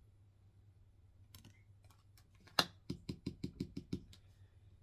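A single sharp click, then a quick run of light clicks, about seven or eight in a second, that fades into a few faint ones.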